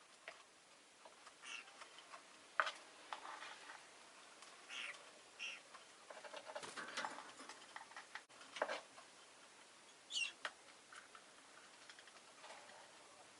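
Rosy-faced lovebird giving scattered short chirps and clicks, with a clearer, higher chirp about ten seconds in.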